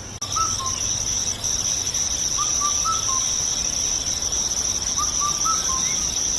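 Crickets trilling steadily in a continuous high chorus, with a bird giving short chirps in three brief groups: near the start, about halfway, and near the end.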